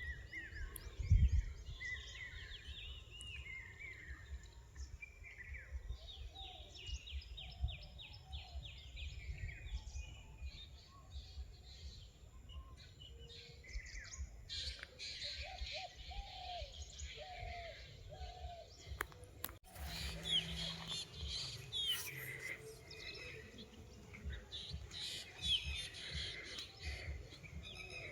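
Several forest birds calling and singing at once: chirps, whistled notes and a fast trill, with a lower series of short falling notes in the middle. A low rumble and soft thumps run underneath, and there is one sharp click about two-thirds of the way through.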